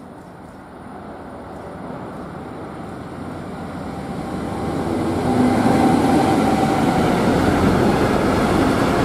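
Freight train of hopper wagons approaching and passing close by: the rumble of wheels on the rails grows steadily louder and turns loud about five seconds in as the locomotive and wagons go past.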